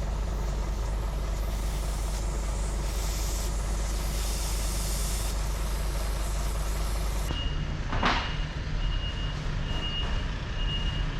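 A steady low engine rumble with hiss, then, after a sudden change about seven seconds in, a forklift's reversing alarm beeping in short regular pulses over a lower hum, with a short sharp hiss of air about a second after the beeping starts.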